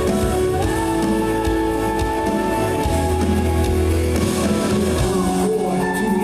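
Live rock band playing: guitar and drums under held chords that change a couple of times, with no singing.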